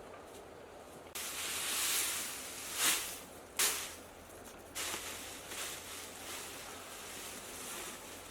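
Rustling and handling noises, with two short sharp crackles a few seconds in.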